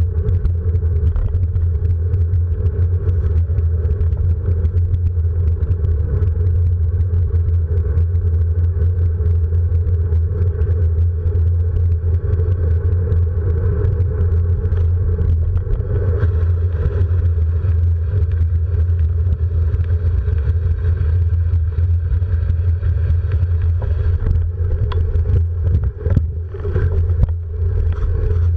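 A vehicle running steadily on a ride, heard as a continuous low drone that dips briefly near the end.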